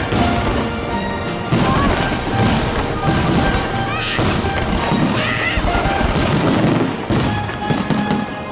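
Background music mixed with a fireworks salute: rapid, dense bangs and thuds from the bursting shells.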